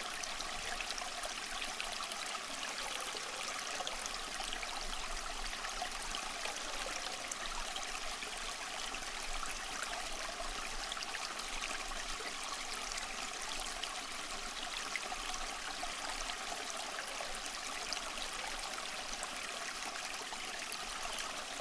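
Steady rush of running water at a waterfall in winter, an even noise with no breaks.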